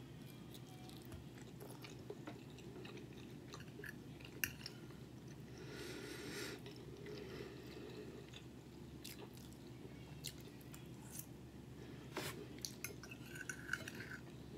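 Close-miked chewing of a mouthful of bacon, egg and cheese omelette, with scattered small mouth clicks. A few light taps of a fork on the plate come near the end.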